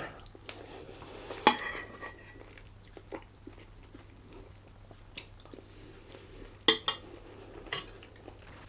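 Cutlery clinking and knocking against a plate a handful of times, with quiet chewing in between.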